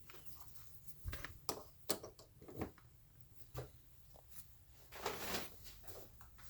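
Faint, scattered light clicks and knocks of handling the antique fan as it is readied for its test run, with a short rustle about five seconds in.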